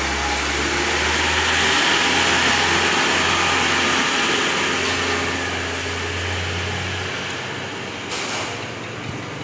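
Portable uPVC window welding machine running with a steady mechanical noise; a low hum underneath cuts off about seven seconds in.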